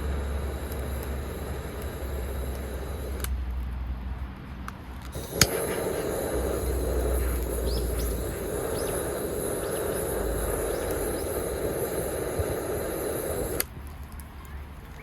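Steady noise of heavy rain and wind, with a low wind rumble on the microphone. The sound changes abruptly a few times, and there is one sharp click about five seconds in.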